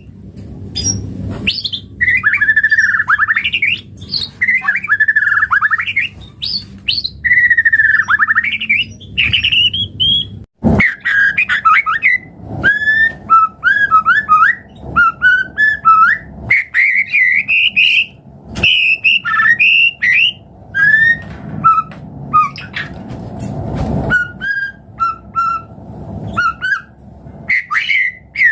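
White-rumped shama (murai batu) singing a loud, varied song of sliding whistled phrases mixed with harsher notes. About ten seconds in there is a brief break with a click, and after it the song turns to quicker clipped notes with very high, fast trills.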